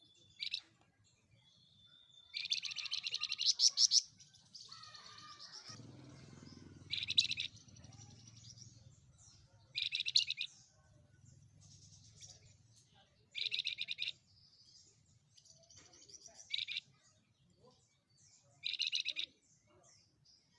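A songbird, the cage bird known in Indonesian bird-keeping as 'flamboyan', repeats short, loud bursts of rapid chirping trills about every three seconds, with softer twittering between them. A longer, fuller burst comes about three to four seconds in.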